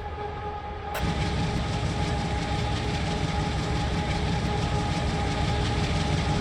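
A train rolling past close by: a steady rumble of wheels on rail with a thin steady whine over it. The sound starts abruptly and gets louder about a second in.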